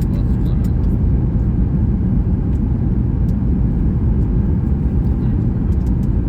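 Steady low rumble of cabin noise aboard a Boeing 737 MAX 8 airliner, engine and airflow noise heard from a passenger seat.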